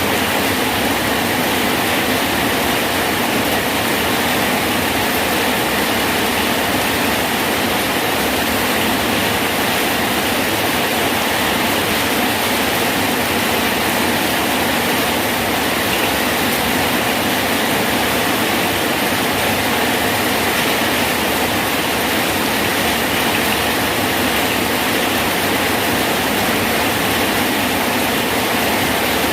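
Rain falling steadily on a bridge: an even, unbroken hiss with no single drops or thunder standing out.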